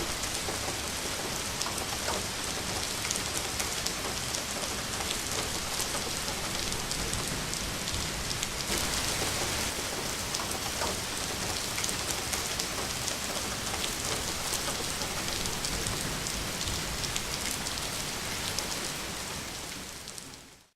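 Rain falling steadily, a dense hiss of many drops, fading out at the end.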